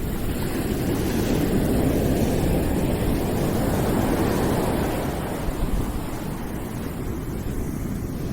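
Continuous background noise track: a steady, deep rush with most of its weight in the low range, swelling gently about a second in and easing off slightly near the end.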